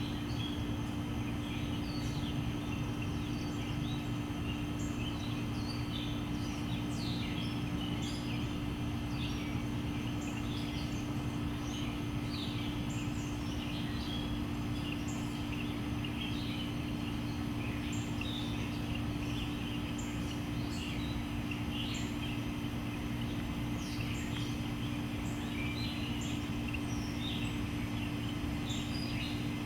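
Small birds chirping on and off, many short calls in quick succession, over a steady low hum that does not change.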